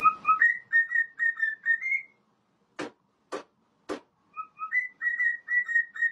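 A whistled tune of short, clear notes in two phrases, with three sharp clicks about half a second apart in the gap between them.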